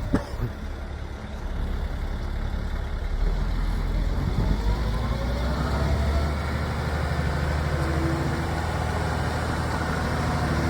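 2001 International 4800 bucket truck's diesel engine idling steadily, growing a little louder about two seconds in.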